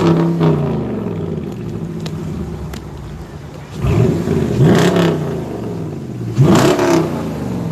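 V8 car exhaust through Flowmaster mufflers, revved in three swells that rise and fall in pitch: one at the start, one about four seconds in, one about six and a half seconds in.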